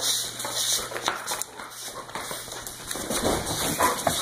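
A young Dutch Shepherd–collie mix dog making dog sounds while it runs about in a game of chase, among uneven scuffling and knocking noises, with a few short pitched vocal sounds in the second half.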